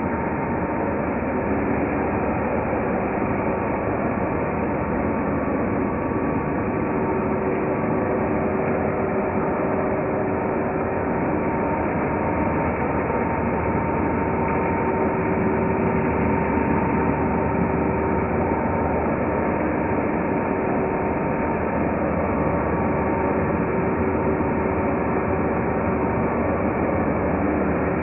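Hoover Turbopower 2 U2464 upright vacuum cleaner running steadily, its motor giving a constant whine over the rush of air.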